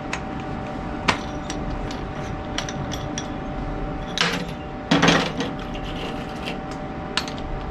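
Scattered sharp metal clicks and taps, with two louder scraping knocks about four and five seconds in, over a steady hum: metal being handled and knocked at a welding bench.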